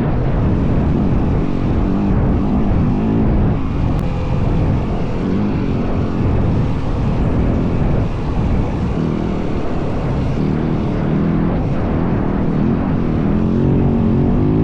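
Dirt bike's single-cylinder four-stroke engine (a Yamaha WR450F) running under way, its revs rising and falling with the throttle, with heavy wind rumble on the microphone.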